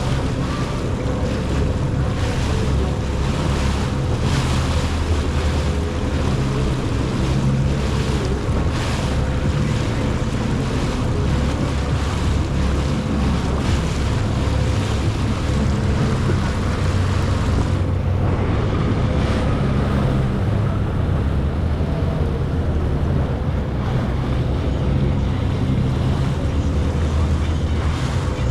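Jet ski engine running steadily under way, with the rush of water and spray and wind buffeting the microphone. The high end thins out about two thirds of the way through.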